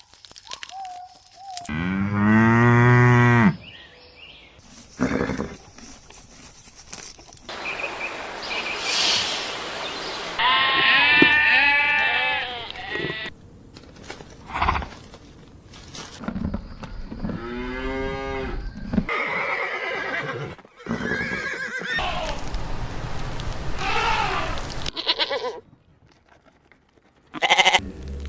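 A run of separate livestock calls edited one after another, each lasting one to three seconds, with abrupt cuts and short gaps between them.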